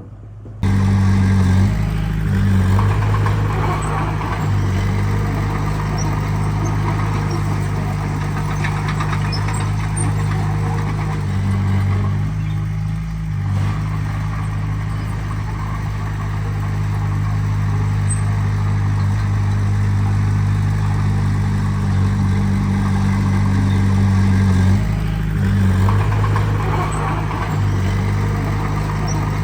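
Heavy diesel engine of earthmoving machinery running steadily at low revs. It comes in abruptly just after the start, with small shifts in pitch about 13 and 25 seconds in.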